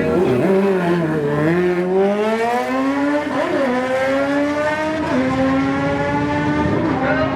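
Under-900cc drag-racing motorcycle accelerating hard down the strip: its engine note climbs steadily, then drops sharply at each of three upshifts.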